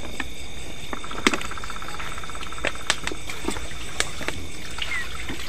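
Night-time outdoor ambience: insects keep up a steady high drone, and about a second in a rapid pulsing call from a frog or insect runs for about a second. Scattered sharp clicks and taps sound throughout, with a few short chirps near the end.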